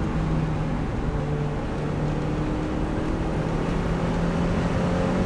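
Turbocharged Mazda Miata's four-cylinder engine running at a steady cruise, heard from inside the cabin with road noise, its drone creeping up in pitch near the end. The engine is being driven while the Megasquirt ECU auto-tunes its fuel (VE) table.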